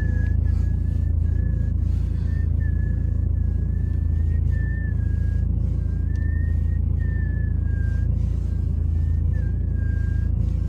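BMW 3 Series E90 steering whistling as the wheel is turned: a thin, high whistle in repeated short strokes, wavering slightly in pitch, over the low hum of the idling engine. It shows up only while the car is cold, and the owner suspects a rubber seal under the steering column rubbing.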